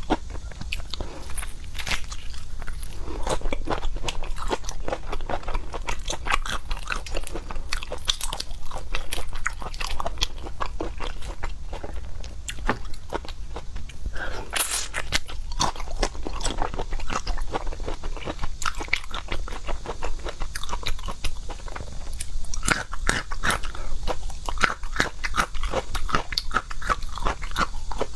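Close-miked chewing and biting of seafood: a dense, continuous run of crunches and clicks from the mouth.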